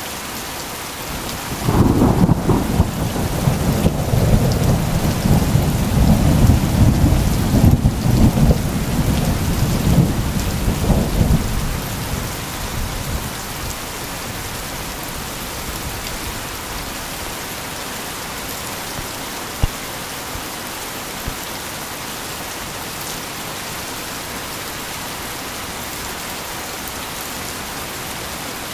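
Steady heavy rain, with a long rolling rumble of thunder that builds about two seconds in and dies away around twelve seconds in.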